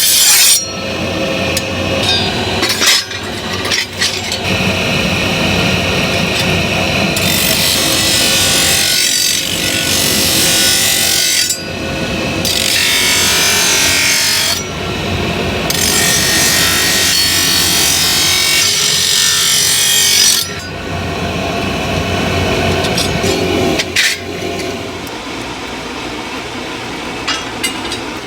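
A power tool working on material in several long passes, each lasting a few seconds and stopping abruptly, quieter in the last few seconds.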